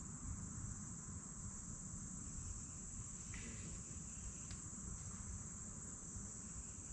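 Steady, faint, high-pitched insect chorus of chirping crickets, over a low outdoor background rumble.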